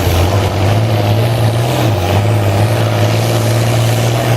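International Harvester 966 pulling tractor's engine running hard at full throttle under heavy load while dragging the pulling sled. Its pitch sags briefly twice as the engine lugs down.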